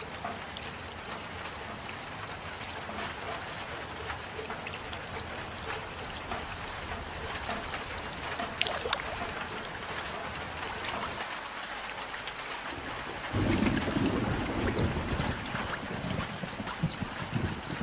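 Steady rain falling, an even hiss with scattered drop ticks. About thirteen seconds in, a louder, deeper rushing sound joins it.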